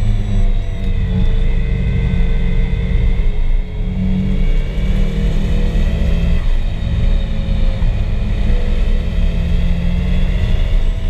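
Turbocharged SR20DET inline-four of a Nissan 240SX running hard on track, heard from inside the cabin over a heavy low rumble. Its note sinks and climbs as the revs change, with a brief drop in loudness about three and a half seconds in.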